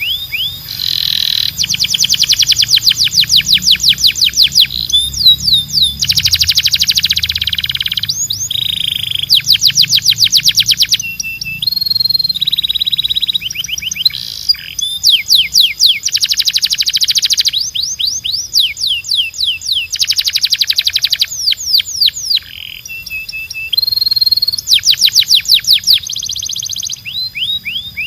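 Canary singing: rapid trilled rolls of about a dozen repeated notes a second, each roll a second or two long, alternating with held whistled notes.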